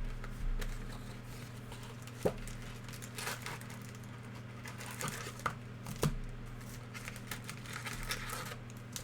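Foil trading-card pack wrappers crinkling and tearing open, with small clicks and taps of cards being handled, over a steady low electrical hum.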